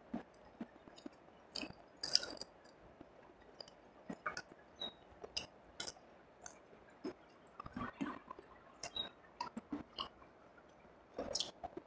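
Close-miked chewing of fried rice and fried fish: irregular wet smacks and sharp mouth clicks, with a cluster of louder ones about two seconds in and again near the end.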